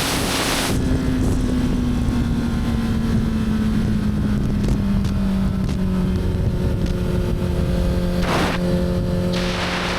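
Motorcycle engine running at a steady cruise, its pitch easing down slowly through the first several seconds and then holding. Gusts of wind noise on the microphone come at the start and again near the end.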